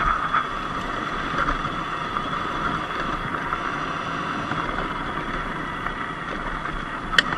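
Sur-Ron Light Bee electric dirt bike riding on a dirt road: a steady high electric-motor whine over tyre and wind noise, with a sharp click about seven seconds in.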